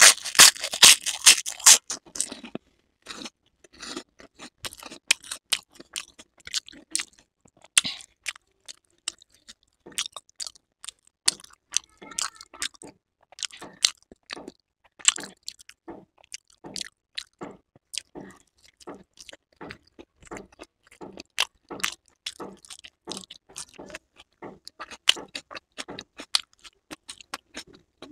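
Close-miked crunching as a crisp fried papad is bitten into, loudest in the first two seconds or so. Then chewing, a steady run of sharp crunchy clicks at about two or three a second.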